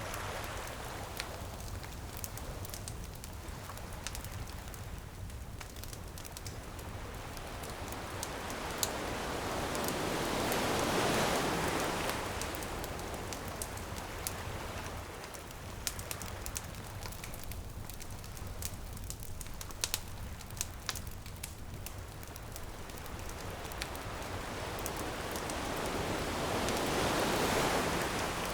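Ocean waves washing in on a beach, two slow swells about fifteen seconds apart, over a wood bonfire crackling with frequent sharp pops.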